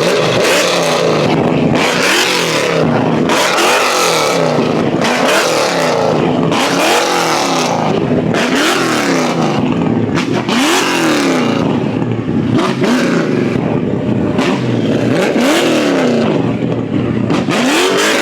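Car engine revving up and falling back over and over, about ten revs each a second and a half to two seconds apart, with a rush of noise at each peak.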